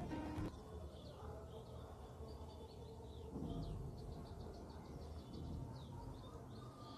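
Faint birds chirping in the background, many short quick calls over a low hum; a passage of music cuts off about half a second in.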